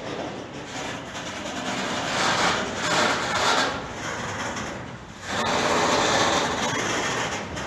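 A train rolling past on the tracks, a steady rushing noise of wheels and wagons that swells twice, about two seconds in and again after a brief dip near five seconds.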